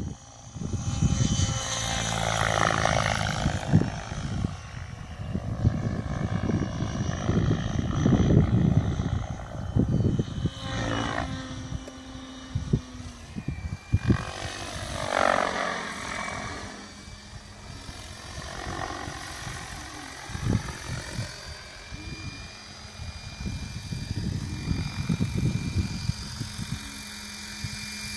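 Mikado Logo 600 electric RC helicopter in flight: rotor blade noise and a motor-and-gear whine. The pitch sweeps up and down twice, about two seconds in and again around the middle, as it manoeuvres, with a gusty low rumble throughout.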